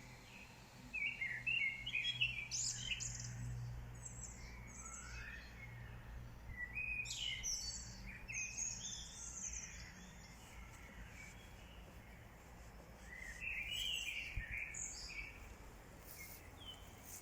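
Songbirds chirping and singing in short bursts of phrases, over a low steady background hum.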